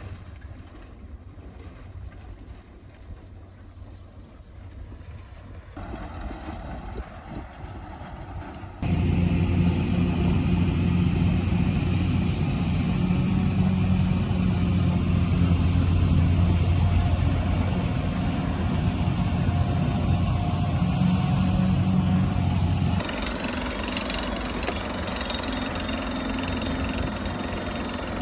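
Excavator engine running. It is fairly quiet for the first several seconds, then abruptly much louder with a steady low hum from about nine seconds in, dropping to a somewhat lower level near the end.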